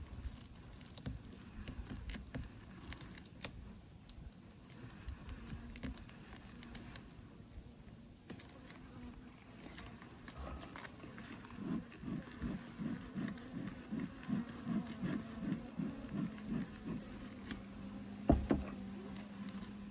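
Honeybees humming low around an open hive, the hum pulsing in and out about three times a second for a stretch, then steadier. Small clicks and scrapes of hive frames being handled run through it, with one sharp knock near the end.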